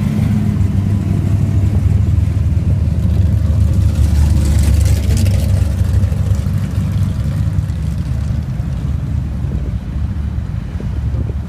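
Deep car engine rumble, swelling about halfway through and easing off near the end.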